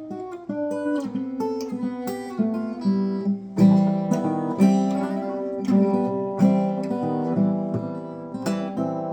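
Acoustic guitar in an alternate tuning playing a blues instrumental passage: plucked and strummed notes ringing over a repeating low bass note.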